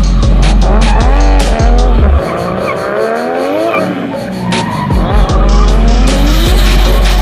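Drift car engine revving up and down several times with tyre squeal as the car slides, mixed with background music that has a heavy bass and a steady beat.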